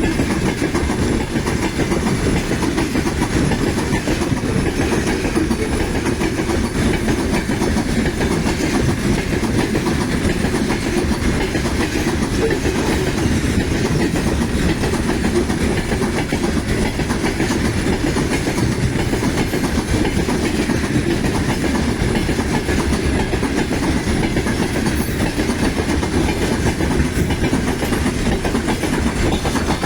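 Freight train rolling past steadily, its wagon wheels clattering over the rail joints.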